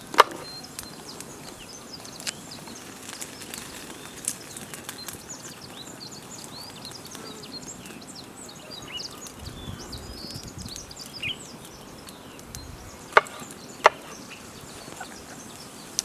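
Sharp knocks, one just after the start and two less than a second apart near the end, over a steady forest background full of short high chirps.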